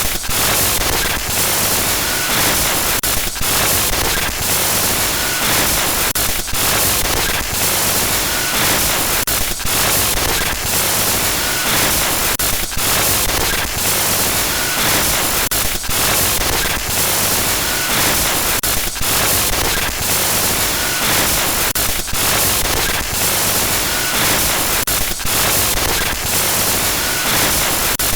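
Loud glitch-noise sound effect: harsh static hiss full of crackling flickers and brief dropouts, looping in a pattern that repeats about every three seconds.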